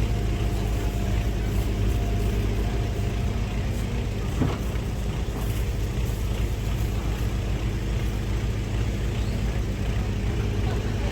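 Diesel engine of a Kobelco SK200-10 excavator running steadily at low speed, with one light knock about four and a half seconds in.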